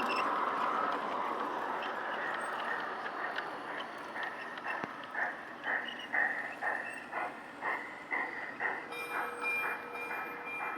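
G-scale garden railway model train running along its track, loud as it passes at first and then fading, followed by a regular pulsing rhythm about twice a second as it runs on.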